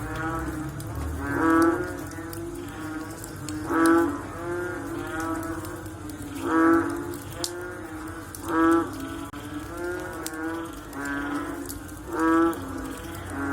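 A chorus of frogs calling after rain: about five loud, deep, pitched calls two to three seconds apart, with quieter calls from other frogs overlapping between them.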